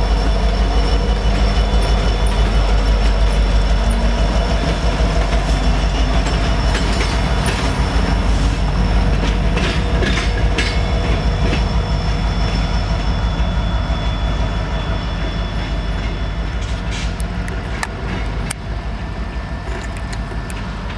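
Diesel-hauled train rolling past at close range: a heavy low engine rumble, with wheels clicking over rail joints and a thin wheel squeal. The sound slowly fades as the last car passes and the train moves off.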